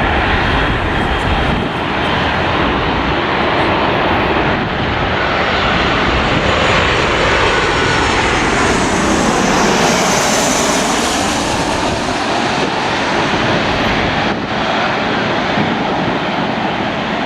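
A heavy jet airliner's engines passing by, the jet noise swelling to its loudest a little past the middle, with a whooshing tone that sweeps down and back up as the aircraft goes past.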